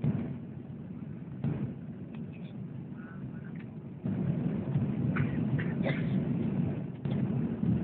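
Low, steady rumble of an airplane, growing louder about halfway through.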